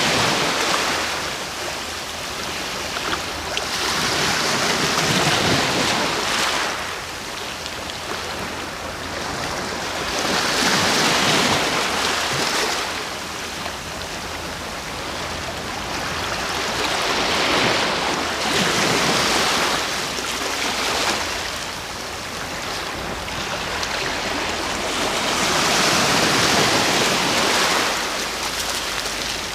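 Sea waves breaking and washing ashore, the surf swelling and fading in slow surges every several seconds.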